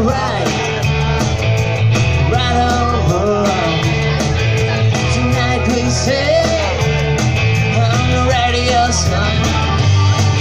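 Live rock band playing through a PA: a steady heavy bass and drum beat with a wavering melody line on top, in an instrumental stretch between sung lines.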